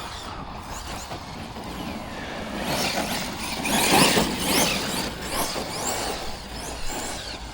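Arrma Notorious 6S RC monster truck driving, its brushless motor whining up and down with the throttle and loudest about four seconds in.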